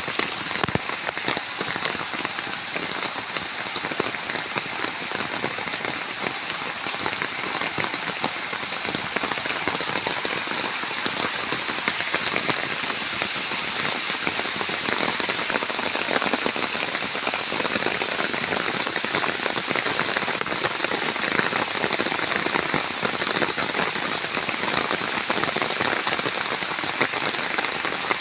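Steady rain falling, with many separate drop hits heard through a constant hiss.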